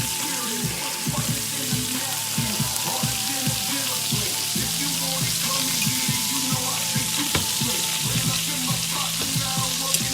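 Chicken breasts sizzling in a pan of Hennessy glaze that is cooking down: a steady frying hiss with many small pops from the bubbling sauce.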